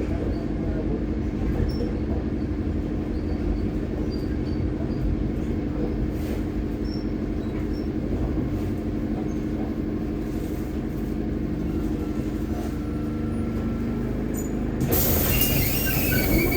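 YuMZ T-2 trolleybus heard from inside the cabin: a steady electric-drive hum with a few held tones. A loud hiss comes in near the end and lasts about two seconds.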